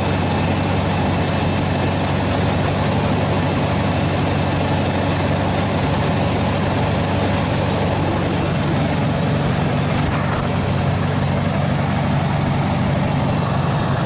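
1986 Chevy K-10 pickup's engine idling steadily.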